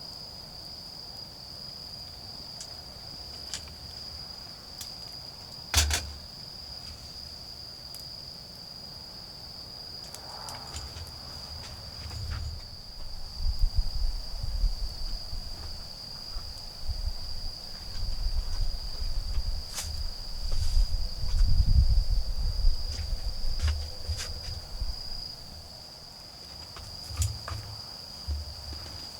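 Autumn insects singing in one steady, unbroken high-pitched trill, with occasional sharp crackles and pops from a wood fire. A low rumbling noise comes and goes through the middle.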